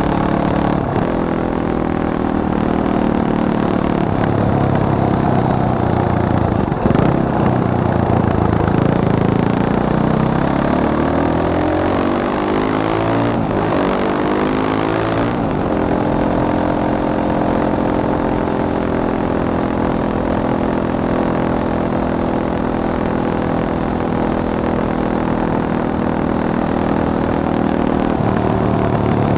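Fantic Caballero 500 Flat Track's single-cylinder four-stroke engine running. The note is steady at first. About a quarter of the way in the pitch climbs and shifts for several seconds, with short breaks near the middle, then holds steady for the rest.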